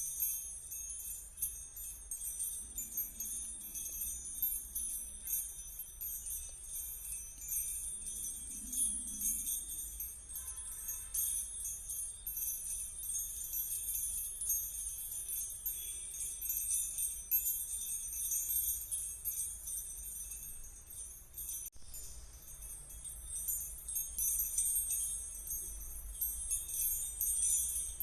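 Small jingle bells shaken continuously, a steady high shimmering jingle.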